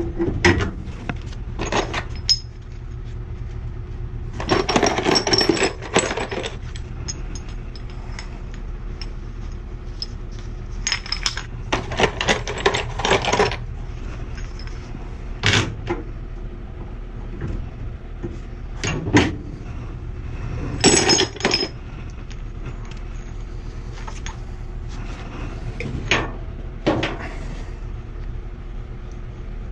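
Metal tools and gas pipe fittings clinking, clanking and scraping as they are handled and tightened, in scattered irregular bursts over a steady low hum.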